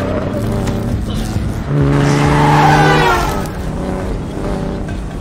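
Jaguar E-Type's straight-six engine running hard as the car is driven fast. It swells louder for about a second and a half in the middle, with a high tyre squeal over it.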